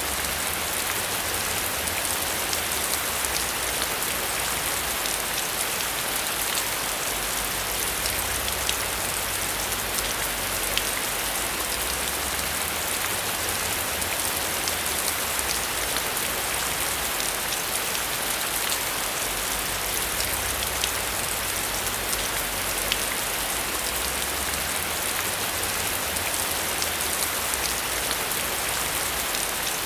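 Heavy rain falling steadily, a dense, even hiss dotted with the sharp ticks of individual drops.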